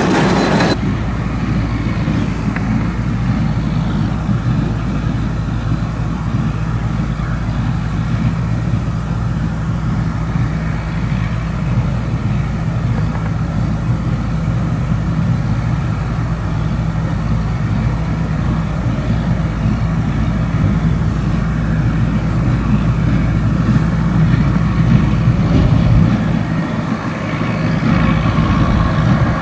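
Massey Ferguson 675 tractor engine running steadily while it drives a small square baler, thought to be a Welger AP 530, through the field.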